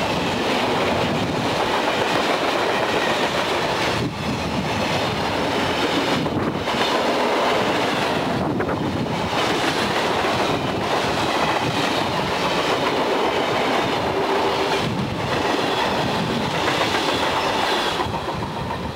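A freight train's covered hoppers and tank cars rolling past at close range, a steady loud rumble and clatter of steel wheels on rail. The sound falls away as the last car passes near the end.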